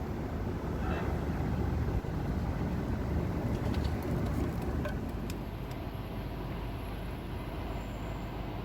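A car running: a steady low rumble of engine and road noise, with a few faint clicks.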